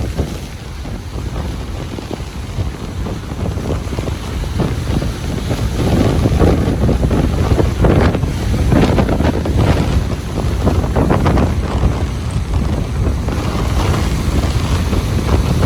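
Ocean surf breaking and washing on a beach, with wind rumbling on the microphone. The surf grows louder about six seconds in, with several surges of wash over the following seconds.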